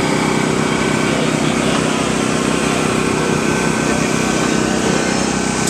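Steady engine drone at an even pitch and level, with no revving.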